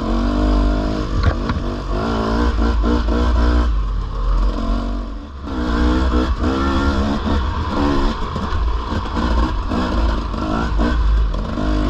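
Dirt bike engine running hard, its pitch rising and falling as the throttle opens and closes, easing off briefly about four seconds in, with heavy wind rumble on the microphone.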